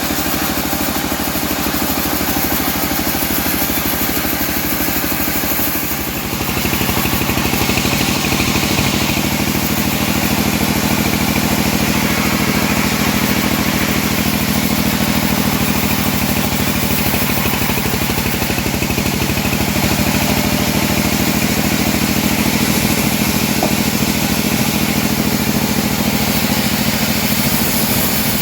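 Engine of a homemade bandsaw mill running steadily while sawing a teak log. The sound gets louder and fuller about six seconds in.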